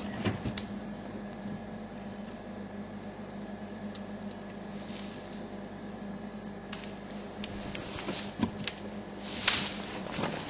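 Elephants breaking branches and pushing over a tree in the bush: scattered snaps and cracks, the loudest about five seconds in and again near the end, over a steady low hum.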